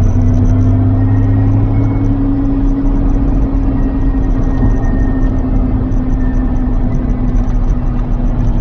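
Lotus Carlton's twin-turbo 3.6-litre straight-six engine running at a steady cruise, along with tyre and road noise. The engine note holds nearly constant and sags slightly in pitch over several seconds.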